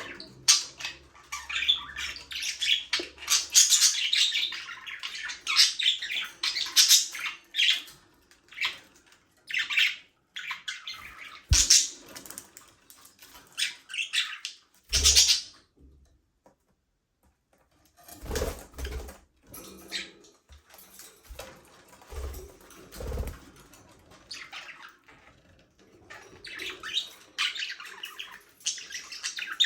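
Budgerigars chirping and chattering in quick bursts, with a pause of a couple of seconds past the middle. A few low thumps sound in the second half.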